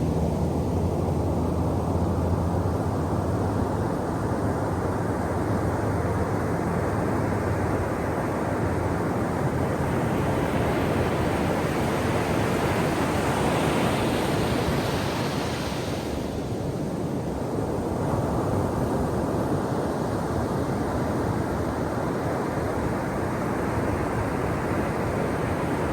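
Ocean surf washing on a shore, a continuous rush of water noise. One wave swells to a peak about halfway through and then dies back.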